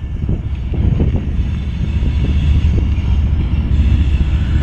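Loaded coal cars of a CSX freight train rolling past: a steady low rumble of steel wheels on the rails, broken by irregular clacks.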